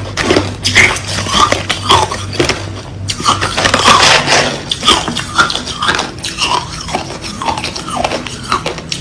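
White crushed ice being bitten and chewed close to the microphone: a dense, irregular run of loud crunches.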